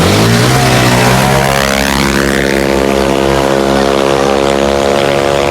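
CVT scooter engine launching hard at full throttle: its note climbs steeply in the first second, then holds at a steady high pitch while the automatic transmission shifts ratio up under the held revs.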